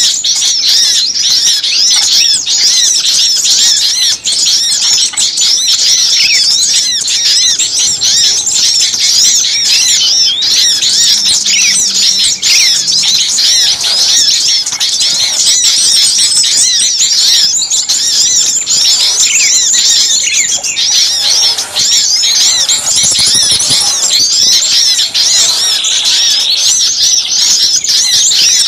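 A dense, loud chorus of many small songbirds chirping and chattering at once without a break, rapid high-pitched calls overlapping. It is a noisy mixed-species small-bird lure recording of the kind played to draw small birds in for trapping.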